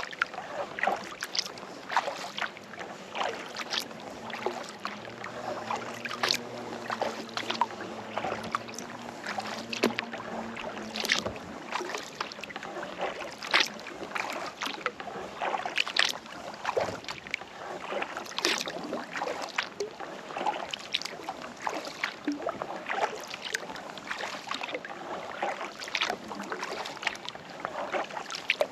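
Kayak paddle dipping into calm lake water stroke after stroke, with irregular splashes and drips running off the blade. A faint low hum sits under it for a few seconds around the middle.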